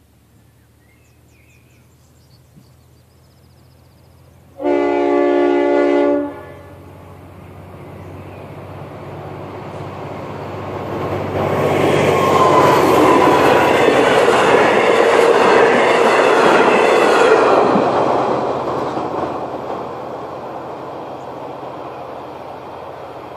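Diesel train sounding its horn in one blast of about a second and a half, then passing close by: the rumble of engine and wheels builds, holds for several seconds and slowly fades as it goes away.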